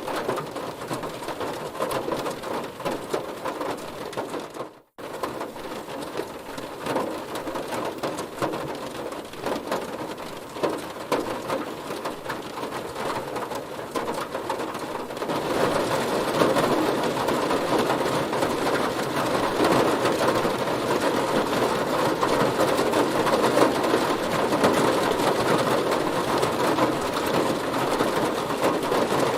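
Heavy rain falling on a car, a dense patter of drops hitting the body. It cuts out for a split second about five seconds in, and from about halfway it grows heavier and louder.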